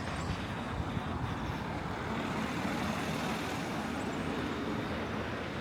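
Road traffic: the steady rush of vehicles passing.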